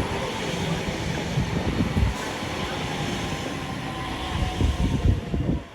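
A train running past: a steady rumble of wheels on rail with irregular low knocks and a faint whine. It cuts off suddenly near the end.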